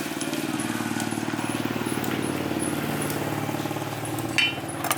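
An engine running steadily at an even speed, with a sharp clack about four seconds in.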